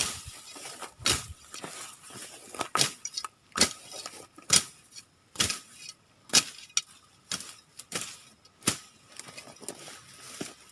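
Repeated sharp chopping strikes, about one a second, each a short hard crack.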